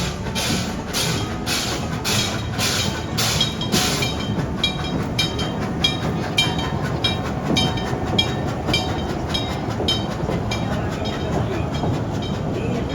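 Steam locomotive running with sharp exhaust chuffs about two a second, which stop about four seconds in. Lighter rhythmic clicking of the train running on the track follows, over a low rumble.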